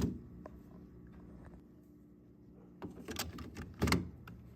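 Sharp plastic clicks and knocks as a refrigerator water filter cartridge and its cover are handled and snapped into place: one click at the start, then a cluster of them near the end. A faint steady hum runs underneath.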